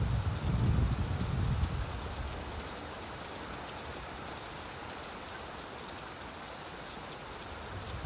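Steady rain falling, with a low rumble fading away over the first two seconds.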